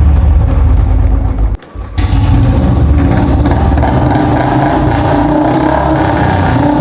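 Royal Enfield Bullet 350 single-cylinder engine running steadily at raised revs while oil is fed into its carburettor to burn the carbon off the piston and valves. The sound drops out briefly about a second and a half in, then the engine runs on.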